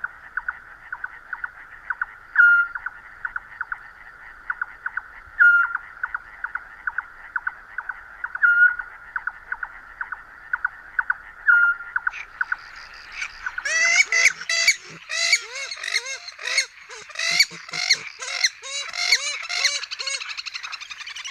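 A nature recording of a pulsing chorus of calls with a short call repeating about every three seconds. About two-thirds of the way in, a flock of birds breaks into loud, overlapping honking calls.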